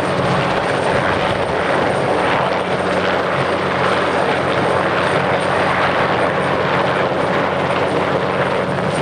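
Sikorsky S-58T helicopter's twin turboshaft engines and rotor running steadily and loudly, a constant rotor-and-turbine noise with a thin high whine above it and no change in pitch or level.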